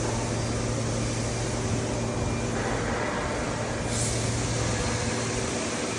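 Laser cutting machine running, a steady machine hum under a continuous hiss. The hiss grows fuller about two and a half seconds in and brighter about four seconds in.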